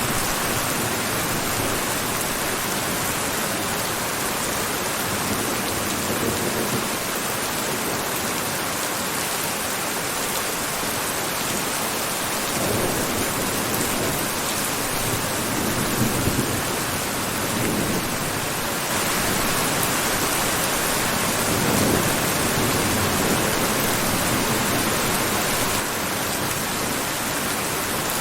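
Steady heavy rainfall, a dense even hiss. A few low rumbling swells come through in the middle.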